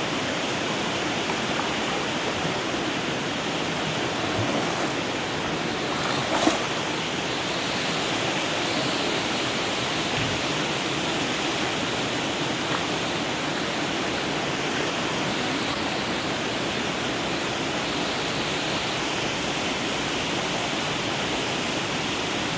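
Steady rush of flowing river water, with a single brief knock partway through.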